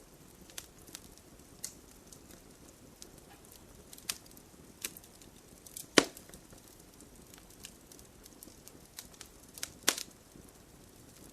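Burning wood fire crackling: irregular sharp pops and snaps over a low, steady hiss of the flames. The loudest pop comes about six seconds in, with another strong one near the end.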